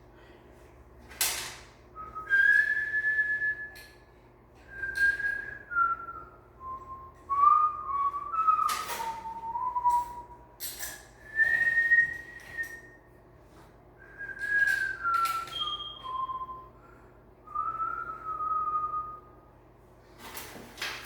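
A person whistling a tune in short phrases of stepping, gliding notes with pauses between them, over scattered clicks and knocks from handling things.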